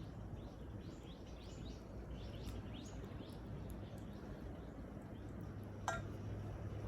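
A bird chirping in a quick run of short, high sweeping notes over the first three seconds, over a low steady background rumble. A single sharp click near the end.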